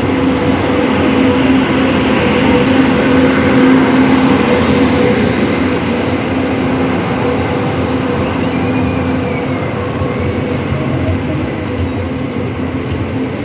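Thiruvananthapuram–Secunderabad Sabari Express pulling into the station platform: a steady low hum over the rumble and rattle of the passing carriages. It is loudest about three to four seconds in, then eases off as the hum fades and the train slows.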